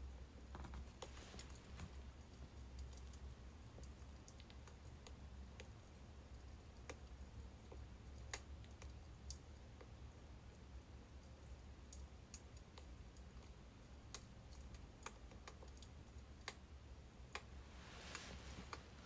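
Birch firewood burning, with faint, irregular crackles and snaps over a low steady hum.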